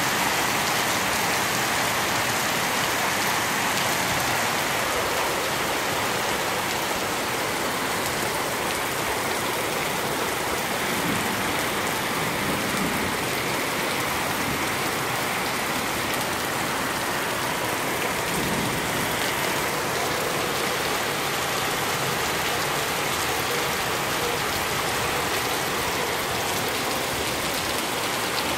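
Steady rain falling and hitting surfaces, an even, unbroken hiss that holds at one level throughout.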